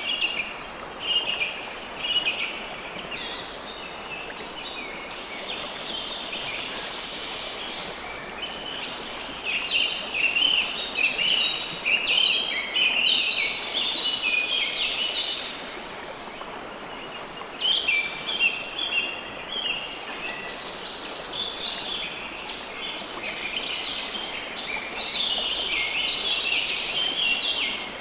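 Songbirds chirping in bouts of quick, choppy phrases, busiest about a third of the way in and again in the second half, over a steady hiss of running water.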